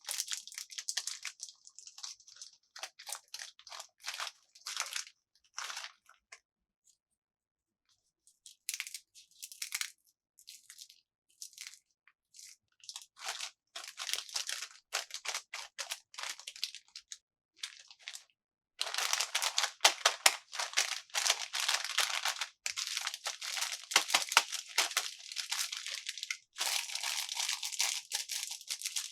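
Plastic packaging crinkling and tearing in many short crackly bursts as it is handled and opened. There is a pause of about two seconds roughly a quarter of the way in, and the crackling turns denser and louder in the second half.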